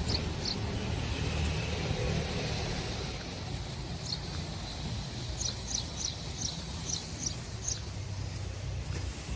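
Outdoor harbour ambience: a steady low rumble with a small bird chirping over it. The bird gives a couple of chirps at the start, one about four seconds in, then a quick run of about seven chirps in the second half.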